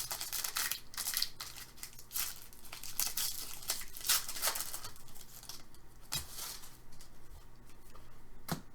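A hockey card pack wrapper being torn open and crinkled by hand, in a quick run of rustles and rips over the first few seconds, then a few light clicks and taps as the cards are handled.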